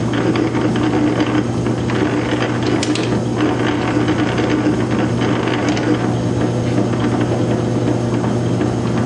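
South Bend metal lathe running with its gear train driving the lead screw for thread cutting: a steady gear hum and clatter while an internal thread is cut in the part.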